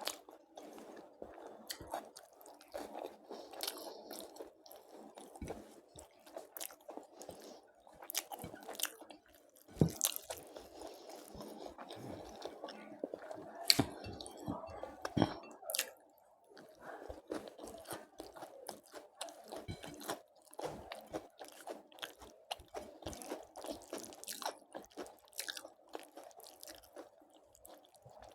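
A person chewing food close to the microphone, with wet mouth sounds and occasional sharp crunching bites, the loudest about ten and fourteen seconds in.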